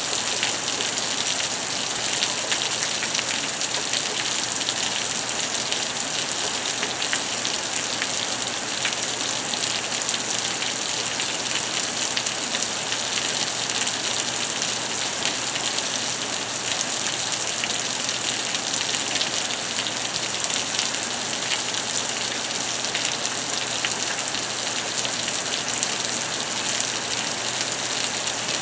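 Steady thunderstorm rain, a dense even hiss of falling drops.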